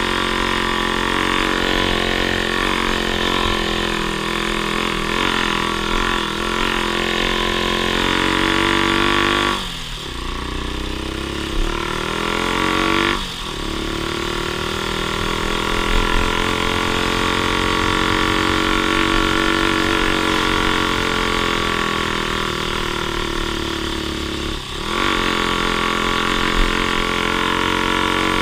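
Off-road vehicle engine running under load on a trail ride. Its pitch drops sharply three times and climbs back each time, as the throttle is eased and reopened or gears change.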